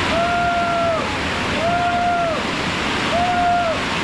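Waterfall rushing loudly and steadily. Over it come three drawn-out, level tones, each lasting under a second, spaced about one and a half seconds apart.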